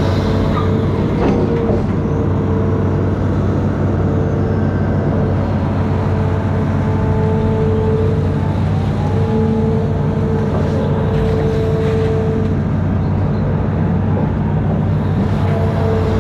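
Amphibious excavator's diesel engine running steadily under load, with a higher whine that cuts in and out several times.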